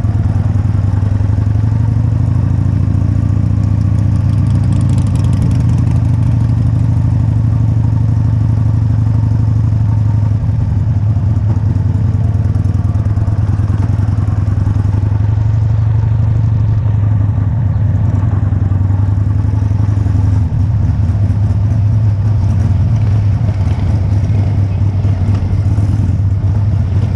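Motorcycle engine running steadily at low speed, a low drone heard from a camera mounted on the bike.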